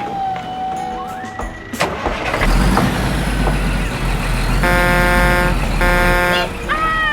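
Truck sound effect: an engine rumbling, with two held horn honks about a second apart over it and a short falling tone near the end.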